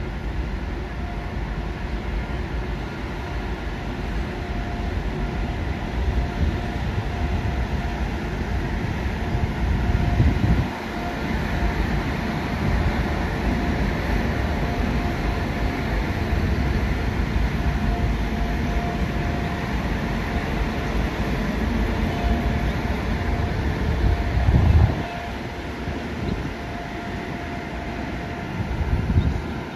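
A train running along the track: a continuous rumble of wheels on rail, with a faint steady tone above it. The sound swells and then drops off abruptly about ten seconds in, and again about twenty-five seconds in.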